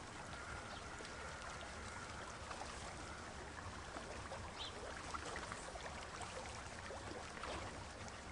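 Faint steady background noise, an even hiss, with a few small scattered clicks; no animal calls.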